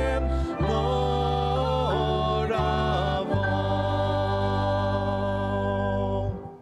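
A hymn sung with instrumental accompaniment, ending on a long held final chord that stops just before the end and dies away.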